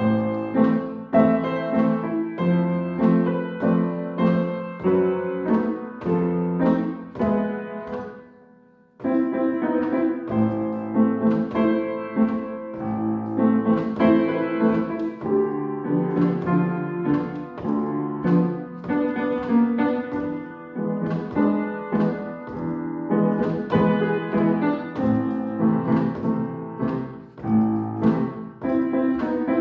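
A solo piano piece played by a child: a run of melodic notes that fade out to a brief break just before nine seconds in, then the playing resumes.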